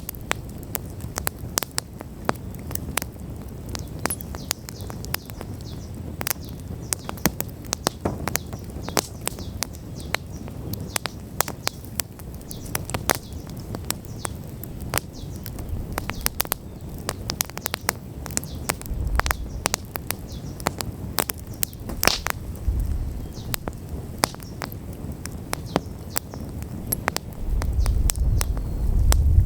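Wood bonfire burning, with constant crackling and frequent sharp pops, over a low rumble that swells briefly a couple of times and grows louder near the end.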